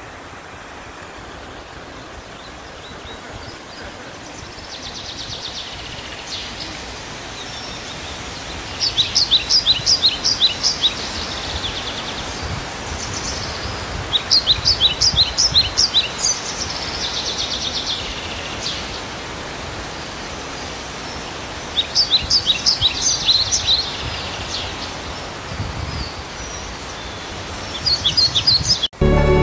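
A songbird singing in bouts of rapid, high, repeated notes, each bout about two seconds long and coming back every several seconds, over a steady outdoor rush of noise.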